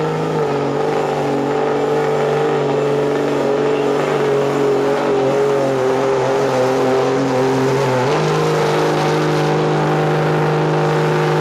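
A 1999 Dodge pickup's Cummins straight-six diesel running flat out under heavy load as it drags a weight-transfer sled down a pulling track. Its pitch sags slightly, then steps up about eight seconds in.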